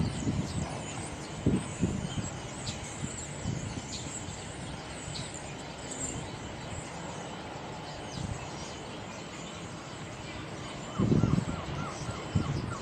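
A flock of birds chirping and calling, many short high calls scattered over a steady background; about two seconds before the end, louder calls come in quick succession.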